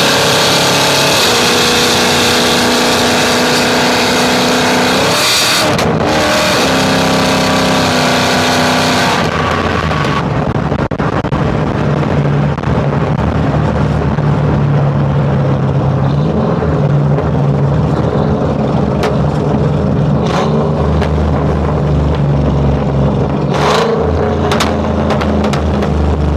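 Chevrolet truck engine running and being driven: a steady, high engine note that steps up and down, with a short rise in revs about five seconds in. About ten seconds in it drops to a lower, steady drone with a few sharp clicks.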